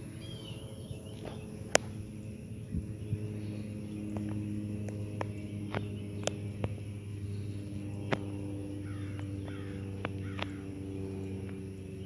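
Birds calling a few times, harsh crow-like calls, over a steady low hum, with scattered sharp clicks.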